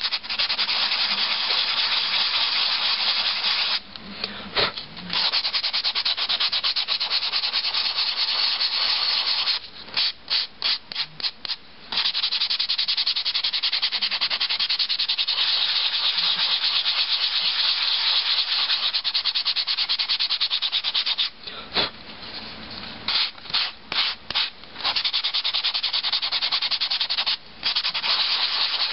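Fine-grit sanding sponge rubbing rapidly back and forth over a dried paperclay doll, smoothing its rough surface. The fast scrubbing stops briefly a few times, with short separate strokes about ten seconds in and again past the twenty-second mark.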